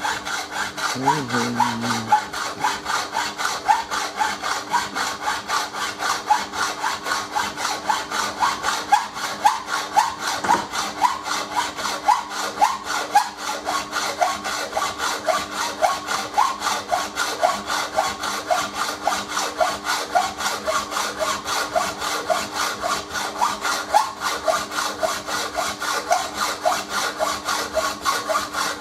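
Saw cutting in regular back-and-forth strokes, about two a second, over a steady hum that holds throughout.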